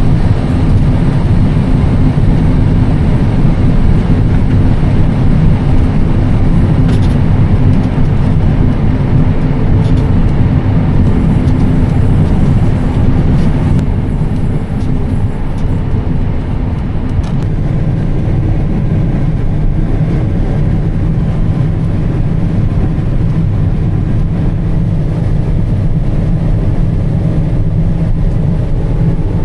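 John Deere combine running steadily while harvesting soybeans, a constant engine and machinery drone heard from inside the cab.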